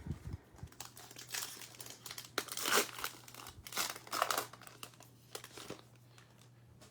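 Trading-card pack being torn open, its foil wrapper crinkling in a run of crackling bursts between about one and six seconds in.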